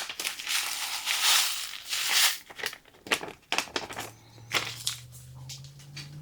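A paper-foil envelope of dry onion soup mix crinkling and rustling as it is handled and emptied, followed by several sharp separate taps.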